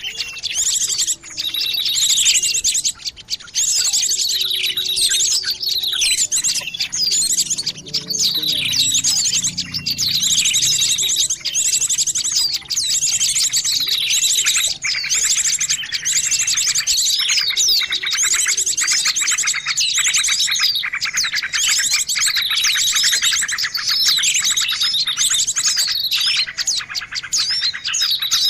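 Dense, overlapping small-bird chirping and trilling from a mixed bird-lure call recording, the kind used to attract small songbirds. Quick falling notes repeat over fast high trills, and a continuous rapid rattling trill joins about halfway through.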